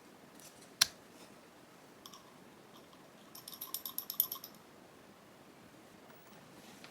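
Small hard parts being handled, clicking and rattling: one sharp click about a second in, then a quick run of about a dozen light clicks a little past halfway.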